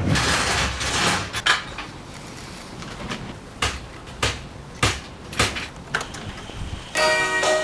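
A run of sharp knocks and clunks, hard objects striking, spaced about half a second to a second apart; music comes in near the end.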